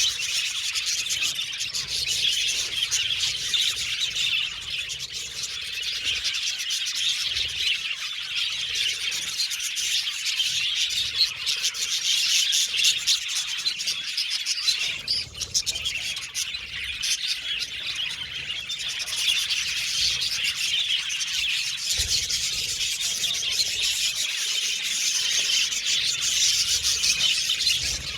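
A flock of budgerigars chattering and chirping continuously, many rapid overlapping chirps and warbles with a short lull about halfway through.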